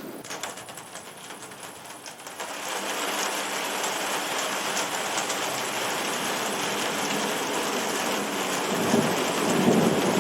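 Heavy rain pouring down, growing louder about two seconds in, with a low rumble of thunder building near the end.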